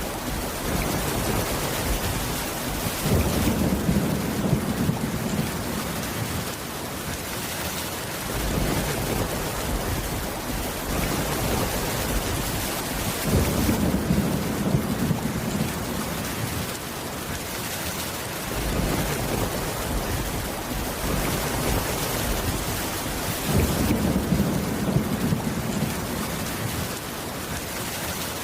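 Steady rain falling, with three low rolls of thunder swelling up about ten seconds apart.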